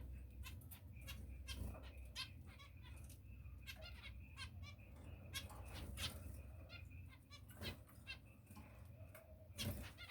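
Pet finches chirping: many short, quick calls in irregular runs, over a low steady hum.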